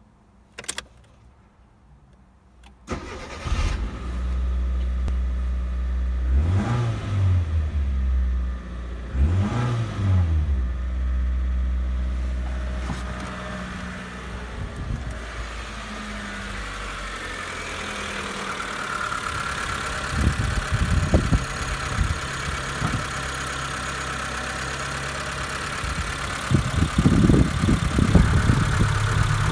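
Mitsubishi Colt's 1.3-litre 4G13 inline-four petrol engine starting about three seconds in, blipped twice, then idling steadily. Near the end, irregular bumps and rubbing come from close to the microphone.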